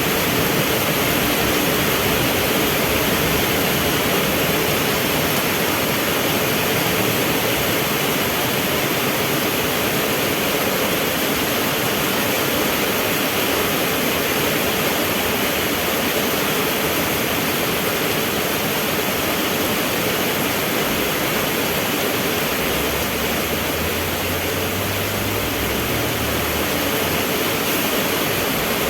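Heavy rain falling steadily, a dense even hiss. A low engine hum from a vehicle joins it for a few seconds about three-quarters of the way through.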